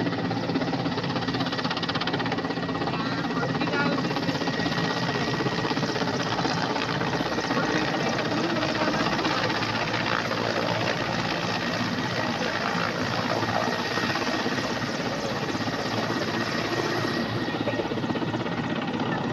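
A steady, continuous machine noise with a rapid flutter.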